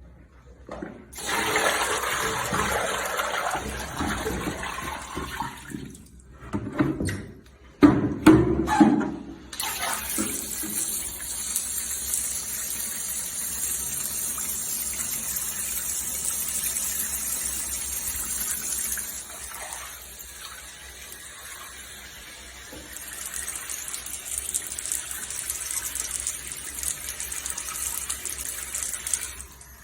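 Water running and splashing, with a loud knock about eight seconds in, then a steady hissing rush of water that dips for a few seconds past the middle and comes back.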